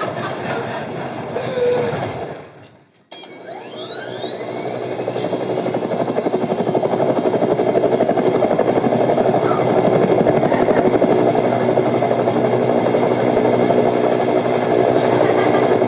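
Helicopter sound that fades away about three seconds in. It then starts up again with a turbine whine rising steeply in pitch to a high steady tone, while the rotor noise builds into a steady, fast, even beat.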